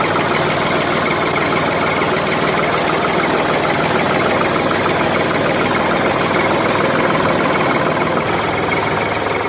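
A motor running steadily with a fast, even rattling beat, beginning to fade right at the end.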